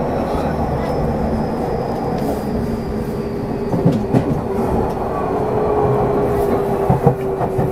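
Tokyu 6000 series electric train heard from inside a passenger car while running: a steady rumble of wheels on rail, with a faint high whine that slowly falls in pitch over the first few seconds. A few sharp clacks come about four and seven seconds in.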